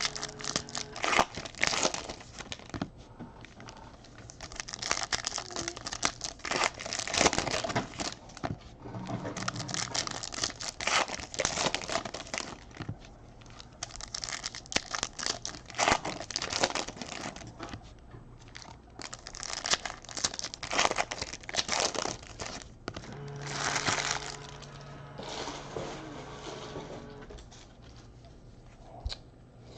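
Trading-card pack wrappers being torn open and crinkled, with cards handled in between: an irregular run of crackling and rustling.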